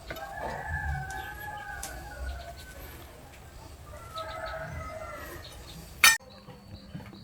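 A bird calling: two long drawn-out calls, the first at the start and the second about four seconds in. A single sharp click follows near the end.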